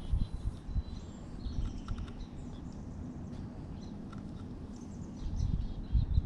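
Outdoor ambience: a low, uneven rumble with faint, scattered bird chirps.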